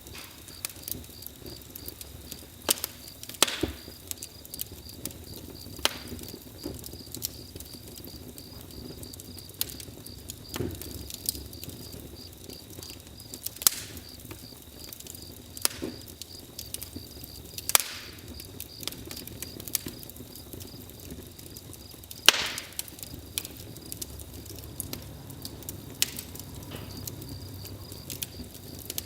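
Wood fire crackling, with sharp pops at irregular intervals, a few of them louder. Under it runs a steady, high, finely pulsing chirping of insects.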